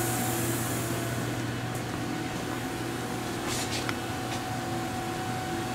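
Steady hum of a powered-up Haas HS1RP horizontal machining center standing at idle, with a few faint ticks.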